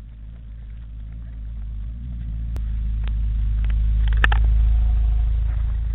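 Lotus Exige sports car engine driving past close by: the low rumble grows louder to a peak about four seconds in, then fades as it goes by. A few sharp clicks come just before the peak.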